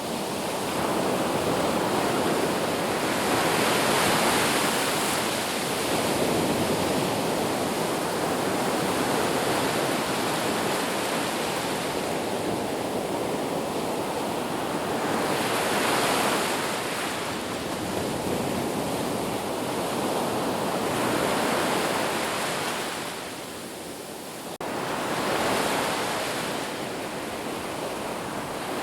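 Sea waves breaking and washing on a shore: a continuous rushing surf that swells and eases every few seconds, with a brief lull near the end before the next wave comes in sharply.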